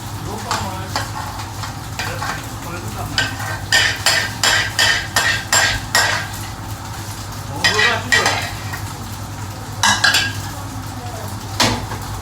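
A metal utensil stirring and scraping food in a hot pan while it sizzles, in a quick run of strokes a few seconds in and a few more later. A steady low hum runs underneath.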